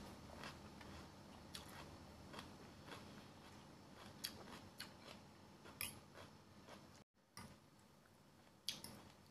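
Faint, scattered crunching and clicking of a mouthful of raw green bell pepper being chewed with the mouth closed, with a sharper click near the end.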